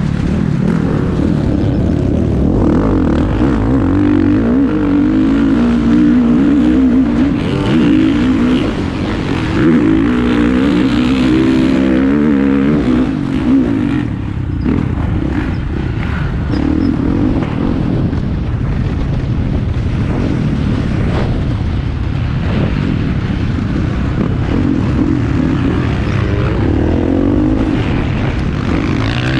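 Motocross bikes racing, their engines revving up and down continuously as they ride the track. The engines are loudest in the first half.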